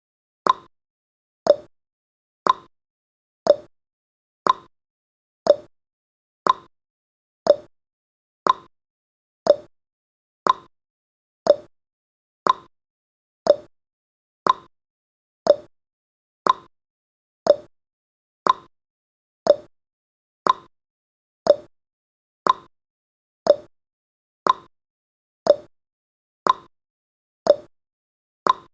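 Countdown timer's clock-tick sound effect: one short, sharp tick every second, alternating higher and lower in pitch like a tick-tock.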